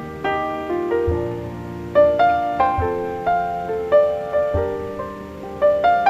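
Soft background piano music: a slow melody of struck notes over low bass notes that come about every second and a half.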